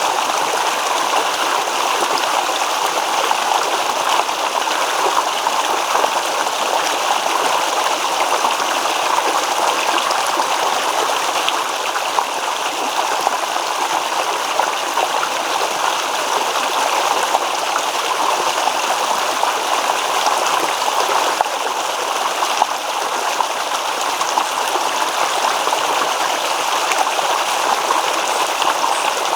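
Babbling stream: water running and rippling over stones, a steady splashing with fine gurgles.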